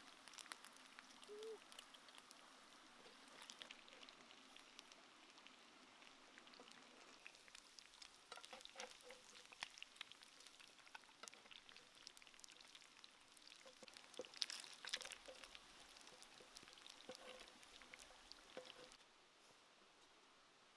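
Faint sizzling and crackling of chicken cooking in sauce in a clay pot, with scattered light clicks that are busiest about fourteen seconds in.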